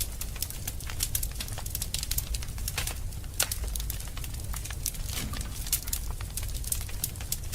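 Wood fire burning in a fireplace, crackling with many irregular sharp snaps and pops over a steady low rumble.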